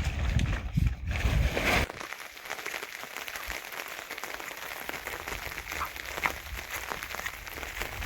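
Heavy rain falling: a steady hiss dotted with many small drop taps. A low rumble runs through the first two seconds, then drops away.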